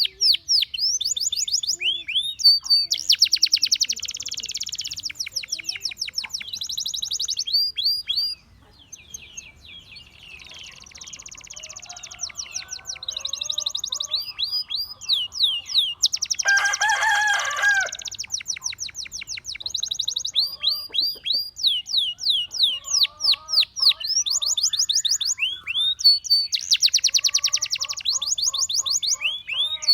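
Gloster canary singing: fast trills of short, repeated falling notes and buzzy rolls, with a brief quieter pause about a third of the way in and a louder, lower phrase a little past halfway.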